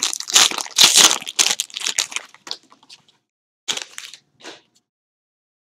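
Plastic wrapping on a trading-card box crinkling and tearing as it is pulled open. A dense run of crackling, then two short rustles after a pause.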